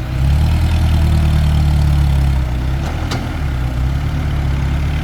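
Diesel engine of a loaded Isuzu NPR dump truck, running hard in a low gear as it pulls away; it gets louder just after the start and eases back a little about halfway through.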